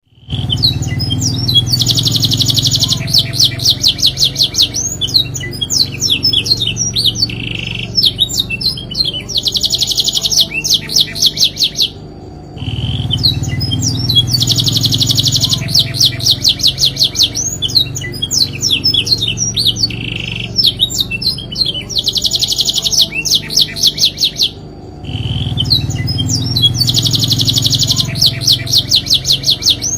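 Domestic canary singing a long, continuous song of rapid trills, rolls and chirps, high-pitched with only brief pauses; the same song passage repeats about every twelve seconds.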